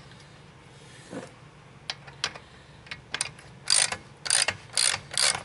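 Ratchet wrench clicking as a bolt is run in: a few single clicks, then a steady run of short ratcheting strokes about two a second, starting a little past halfway.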